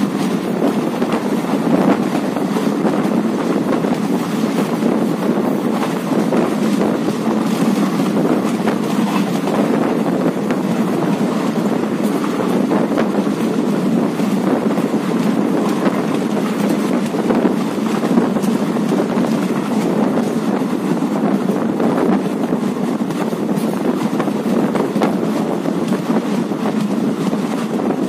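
Steady running noise of a moving train heard at an open carriage window: wheels rumbling on the rails mixed with rushing wind on the microphone, with no let-up.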